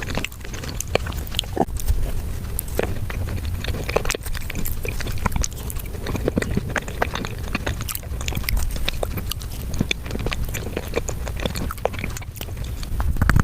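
Eating sounds played back at five times speed: chewing, biting and mouth noises compressed into a dense, irregular stream of quick clicks.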